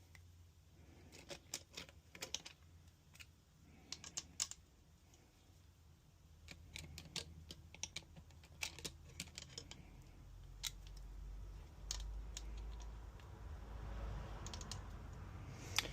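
Scattered light clicks and taps of hand tools and metal parts while a Mitsubishi Evo cylinder head's camshafts are being taken out. A low rumble builds over the last few seconds.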